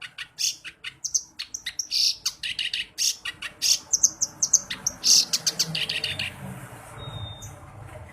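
Clamorous reed warbler (kerak basi) singing a fast run of harsh, chattering notes that stops about six and a half seconds in.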